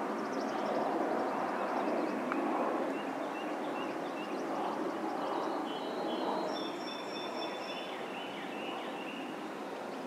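Birds calling and singing, with short high notes and trills clearest in the second half, over a steady rushing background noise.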